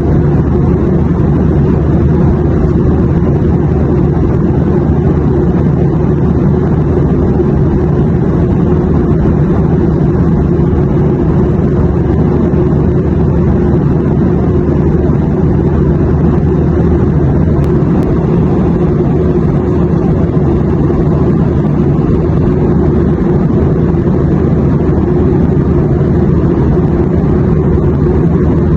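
Airplane cabin noise in flight: a steady, even low rumble of engines and airflow with no changes.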